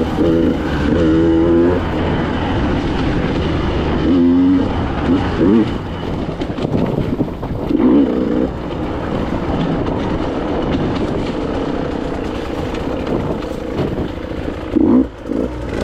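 Two-stroke enduro motorcycle engine being ridden, revving up and dropping back again and again. The pitch rises and falls in bursts: at the start, about four seconds in, about eight seconds in, and near the end.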